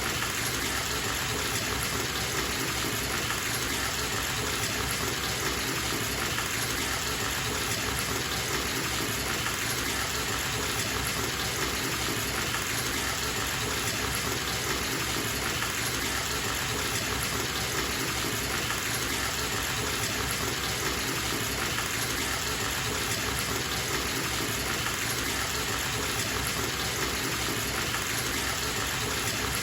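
Bathtub faucet running into the tub: a steady, unbroken rush of water.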